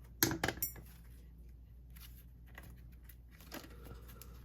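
A quick cluster of sharp clicks and a light, ringing clink in the first second, like small hard objects knocking together, followed by faint handling sounds.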